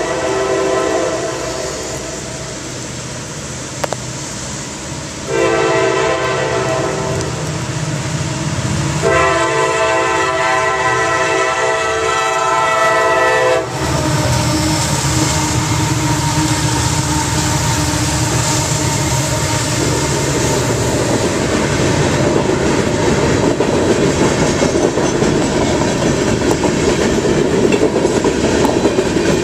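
Freight train at a grade crossing: the locomotive's air horn sounds a blast that fades about a second in, then two long blasts from about five and about nine seconds in, the second louder. The horn stops about fourteen seconds in as the diesel locomotive passes. Freight cars then roll over the crossing with steady wheel clatter.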